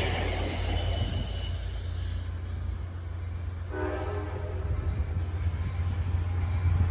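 Diesel locomotive horn on a GP40PH-2B sounding one short blast a little over halfway through, over the steady low rumble of the idling locomotive. A hiss fades away in the first couple of seconds.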